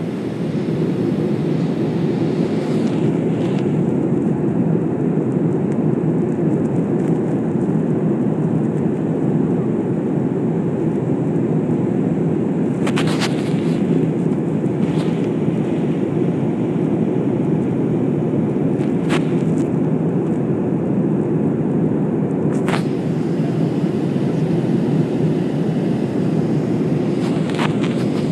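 Jet airliner cabin noise in flight: a steady, loud, low rushing drone of engines and airflow. A few short sharp clicks or rattles come about halfway through and near the end.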